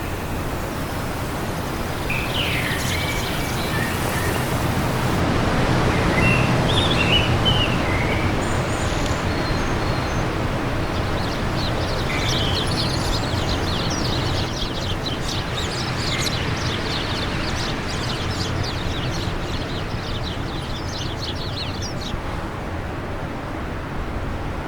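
Steady wind blowing, swelling a little after a few seconds, with birds chirping over it and a long run of rapid high twittering through the middle.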